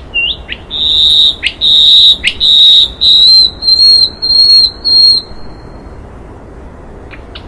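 Songbird singing a phrase of loud, clear whistled notes held at one high pitch. A short rising note comes first, then several long notes, followed by about four shorter ones ending after about five seconds.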